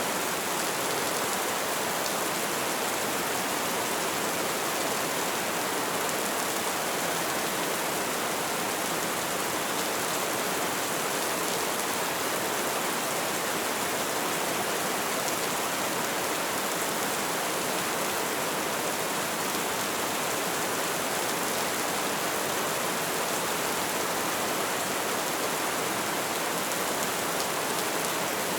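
Light rain falling steadily, an even hiss of drops with no single drops standing out.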